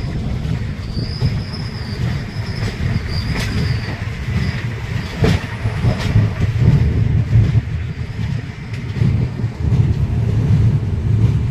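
A train running on rails with a steady low rumble, a high wheel squeal from about one to four seconds in, and a few metallic clanks after it.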